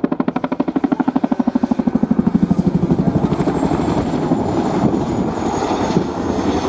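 Boeing CH-47 Chinook tandem-rotor helicopter flying, its rotor blades beating in a fast, even thump of about ten a second that blends into a steadier rush after about three seconds. A thin, high turbine whine slides slowly down in pitch.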